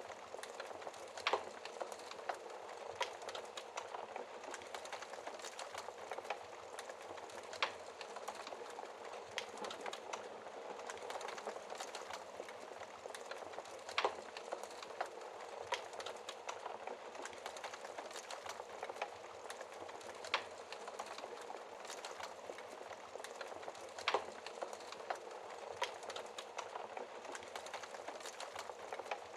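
Wood fire crackling in a fireplace: a steady hiss of fine crackles with a sharp louder pop every few seconds.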